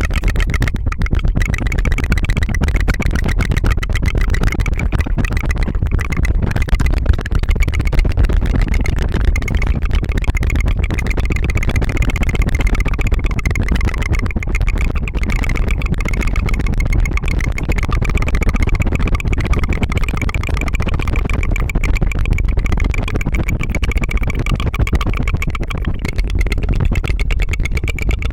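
Rapid, continuous tongue fluttering: a trilled tongue flap making a fast putter like a small motor, close to the microphone.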